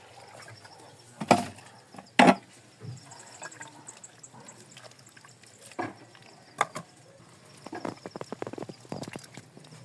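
Two loud knocks, then a few single clicks and a quick run of light taps, like hard objects striking wood.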